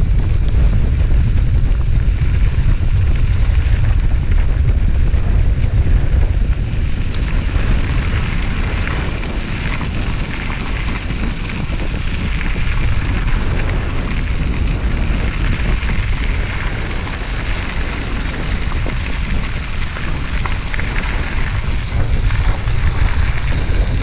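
Wind buffeting the microphone of a camera on a moving bicycle: a steady low rumble with a rushing hiss above it, easing slightly after about seven seconds.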